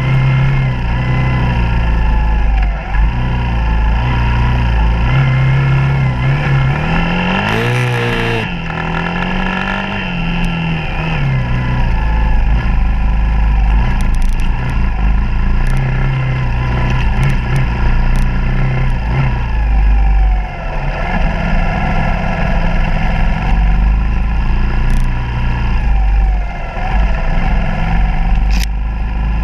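Suzuki DR200's single-cylinder four-stroke engine running under changing throttle on a dirt trail, its pitch rising and falling with the revs. About eight seconds in it revs sharply up and drops back.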